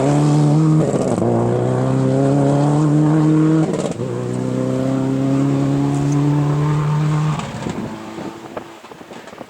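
Rally car engine accelerating hard through the gears, with upshifts about a second in and again near four seconds. The engine note climbs steadily in each gear. It fades away near the end as the car drives off.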